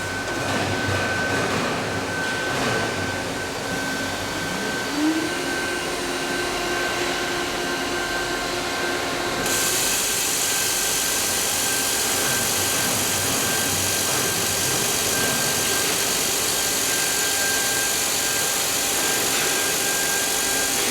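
You Ji DSM double-sided CNC milling machine running, with a steady high whine. About five seconds in, a lower tone rises and then holds steady as a spindle speeds up. About nine and a half seconds in, a loud steady hiss joins in.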